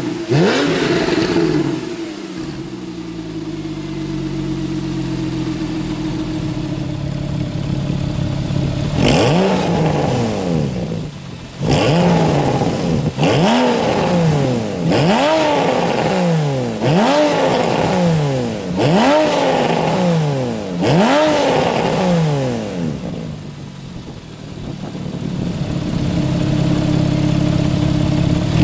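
Porsche 911 Carrera 4S flat-six through an Akrapovic exhaust, revved while standing still. A rev dies away at the start into a steady idle, then comes a run of about seven quick throttle blips, the middle of it with the exhaust valves closed, and a fresh rev right at the end.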